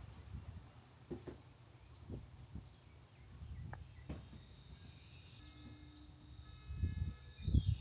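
Quiet outdoor ambience: faint bird chirps over a steady high insect drone. A few light knocks are heard, and closer rustling and handling noise builds near the end.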